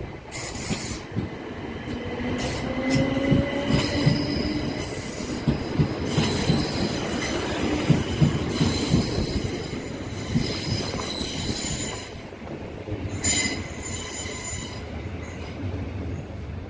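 Passenger train moving along the platform, its wheels squealing on the rails with high ringing tones. A lower whine rises in pitch over the first few seconds.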